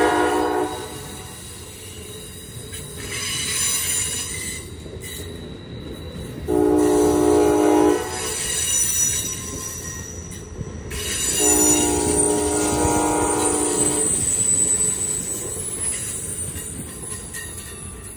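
Passenger train passing close by with steel wheels squealing on the rail. Its horn sounds three times: the tail of one blast right at the start, a blast of about a second and a half about six and a half seconds in, and a longer one of about two and a half seconds near twelve seconds in.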